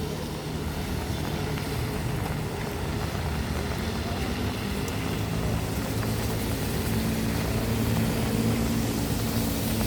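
Street traffic: the steady engine hum of a motor vehicle, growing slowly louder.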